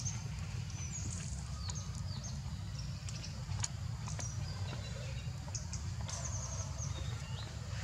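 Small birds chirping in short high calls, with a quick trill about six seconds in, over a steady low rumble.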